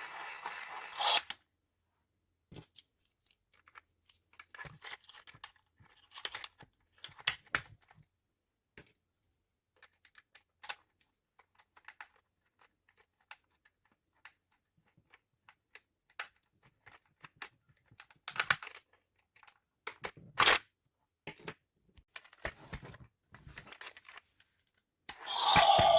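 Sparse small clicks, taps and crinkles of plastic toy parts and packaging being handled, with dead silent gaps between and a sharper click about twenty seconds in.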